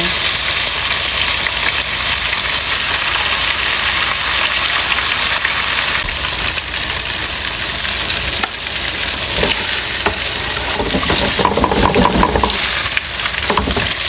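Flour-dredged fish frying in hot oil in a pan: a steady sizzle.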